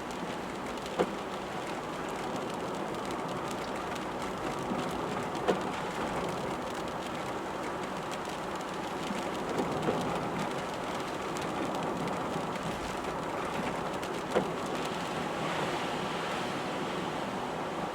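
Rain on a moving car with road noise, a steady rushing hiss. A sharp click cuts through about every four and a half seconds.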